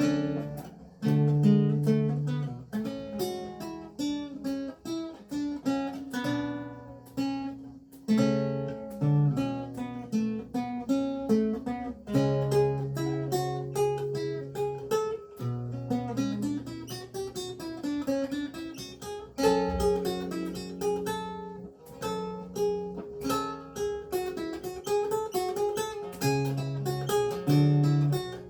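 Renaissance lute with gut strings played solo: a continuous line of plucked melody notes over held bass notes, with fuller chords struck now and then.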